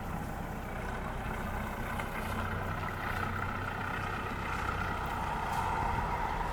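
An engine running steadily, with a low hum and a whine that grows louder and drops slightly in pitch near the end, as if it is passing by.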